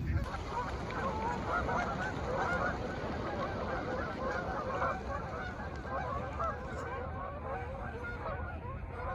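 A large flock of geese and ducks calling all at once: a dense, unbroken chorus of overlapping honks, too noisy for those standing by.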